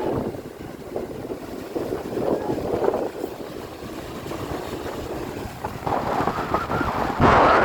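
Strong wind gusting and buffeting the microphone, an uneven rushing noise, with a sharp, louder gust about seven seconds in.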